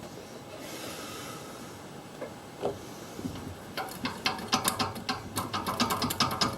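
Hand ratchet wrench clicking in quick, repeated strokes from about four seconds in, after a few light metallic knocks from tools on the car.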